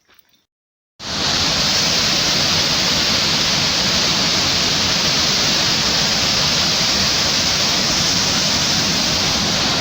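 A waterfall's water rushing loudly and steadily as it falls into a cave. It starts abruptly about a second in, after near silence.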